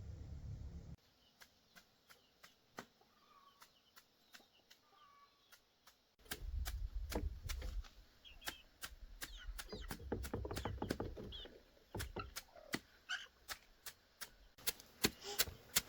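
A run of sharp, fairly regular taps or knocks, sparse at first and then quicker, with faint chirps among them.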